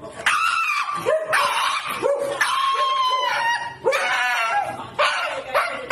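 A dog vocalizing in a series of drawn-out, howl-like calls, about five of them, each rising in pitch at the start and wavering as it goes.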